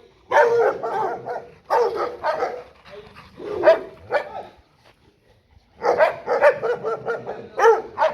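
Dog barking in quick volleys of several barks each, four runs in all, with a short pause about halfway through.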